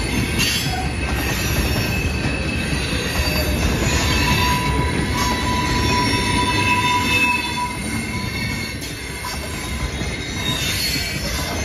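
Rail train of flatcars loaded with stacks of steel rail rolling past, its wheels rumbling on the track with thin, high wheel squeals over it. A steadier squeal comes in about halfway through and fades a few seconds later, leaving the rumble a little quieter.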